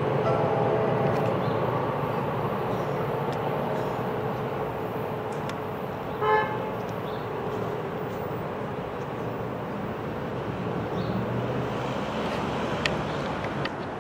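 NJ Transit commuter train running through and slowly fading, with a single short horn toot about six seconds in.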